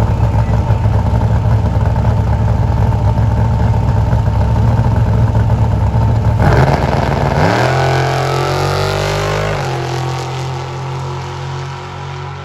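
Drag-racing cars at the start line with engines rumbling, then launching about six seconds in. The engine note rises in pitch through the gears and fades as the cars pull away down the strip.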